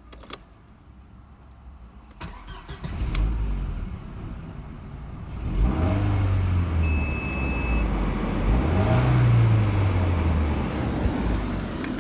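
Audi 1.8-litre four-cylinder engine (code ARH) being started after a few clicks, then running and blipped up in revs twice before dropping back.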